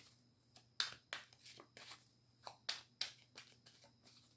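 Faint, uneven rustles and flicks of a deck of reading cards being handled and shuffled, about a dozen soft strokes.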